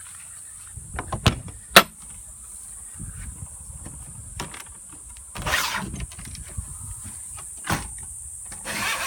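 Latch clicks and knocks of a travel trailer's entry door being unlatched and opened, two sharp clicks early and another later, with rustling and shuffling between.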